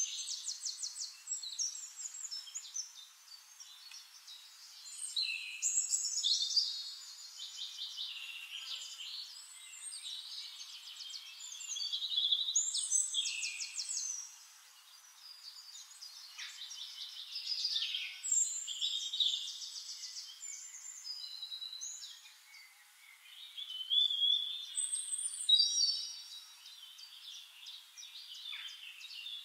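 Several songbirds singing, overlapping rapid trills and short chirps that swell and fade in waves.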